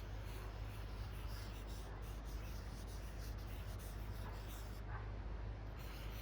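Felt-tip marker strokes scratching across paper, over a steady low rumble.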